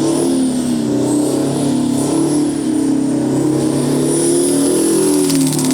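Detroit 16V92 two-stroke diesel, twin-supercharged and quad-turbocharged, held at high revs in a burnout, its note wavering up and down, with a high blower and turbo whine that rises and falls along with it. A rapid crackle comes in near the end.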